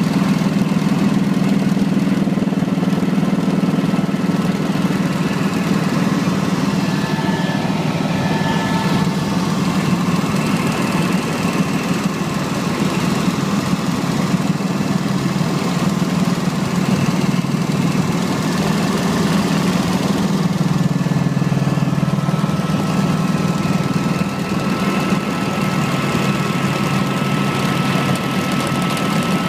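Helicopter running, a steady low mechanical drone that shifts slightly in pitch a little over two-thirds of the way through.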